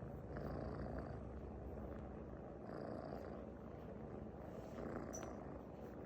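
Domestic cat purring close up, a steady low rumble that swells and eases with each breath, with a brief high click about five seconds in.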